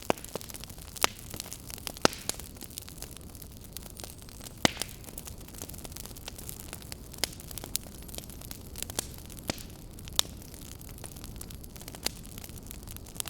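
Fireplace fire crackling: irregular sharp pops and snaps, several a second, a few standing out loudly, over a steady low rush.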